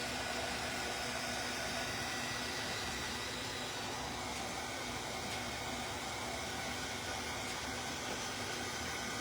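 Steady, even background hiss with a faint constant hum and no distinct events: room noise such as a fan or air conditioning.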